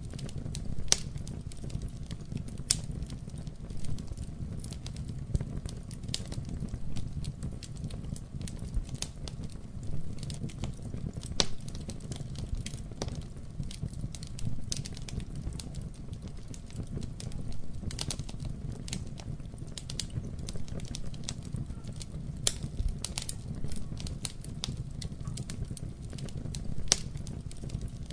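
Wood fire burning in a fireplace, a steady low rumble of flames with frequent sharp, irregular crackles and pops.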